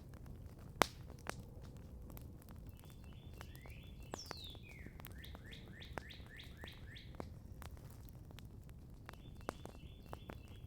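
Campfire crackling with scattered small pops and one sharp pop about a second in. Small songbirds sing over it: short fast trills, then a run of about eight quick falling notes in the middle.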